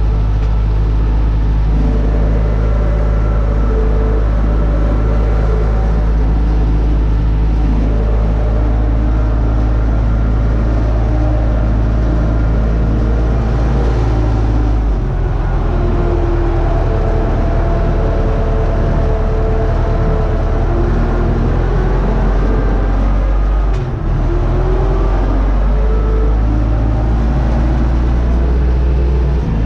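UTB Universal U650 tractor's four-cylinder diesel engine running steadily under load, its pitch shifting about halfway through and dipping briefly near the end.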